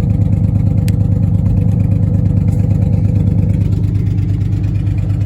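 Dodge Dakota pickup engine idling steadily, in which the owner has just found a vacuum leak that he blames for its poor running. There is a faint click about a second in.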